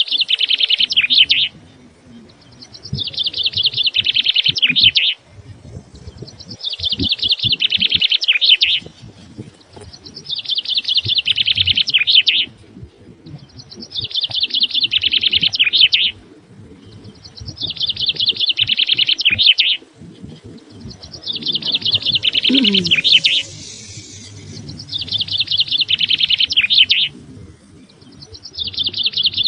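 A small songbird singing the same rapid, high trilled phrase over and over, each phrase about two seconds long and repeated every three to four seconds.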